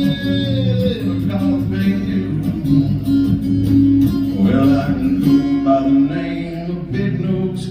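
Live country music: an acoustic guitar playing an instrumental passage over steady low notes.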